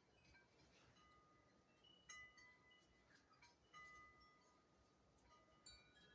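Faint chimes ringing: a few scattered strikes whose high tones ring on for about a second each.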